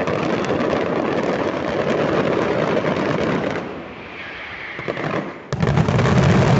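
Fireworks display: a dense, rapid crackling of exploding fireworks for about three and a half seconds, easing off, then a sudden loud, deep burst about five and a half seconds in that carries on.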